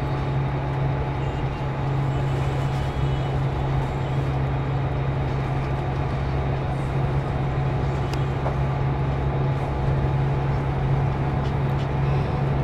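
Steady low drone of a Scania K410CB coach, a constant hum over an even wash of noise.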